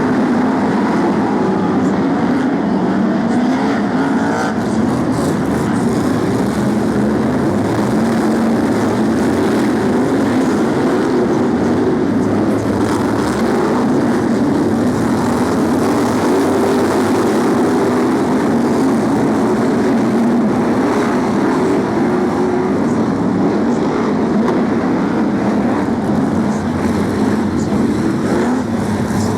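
A pack of BriSCA F1 stock cars racing, their big V8 engines running loud and continuous, with many engine notes overlapping and rising and falling.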